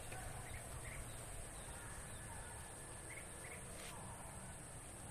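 Faint outdoor ambience with a few scattered short bird chirps over a steady high hiss.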